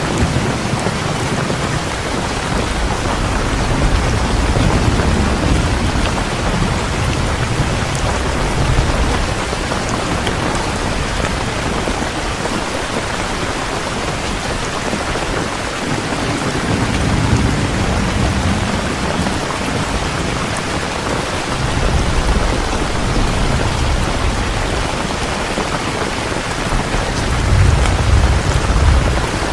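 Heavy rain pouring steadily, with low rolls of thunder rumbling in and out several times.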